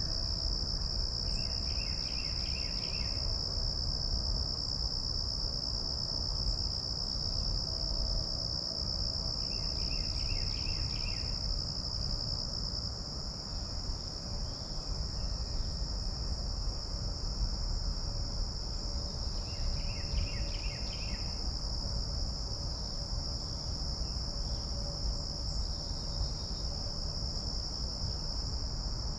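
Steady high-pitched drone of an insect chorus, with a short trilled call breaking in three times, roughly every nine seconds, over a low outdoor rumble.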